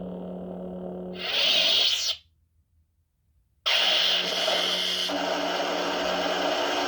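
Lightsaber soundboard playing through the hilt's small speaker: a steady blade hum, then a swelling retraction sound about a second in, cut to silence for about a second and a half, then a sudden ignition burst near the middle and the steady hum again.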